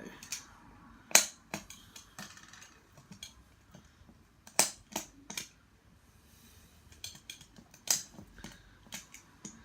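Sharp, separate clicks of a knife cutting through wooden toothpicks. There are several snaps a few seconds apart, the loudest about a second in, with fainter ticks between.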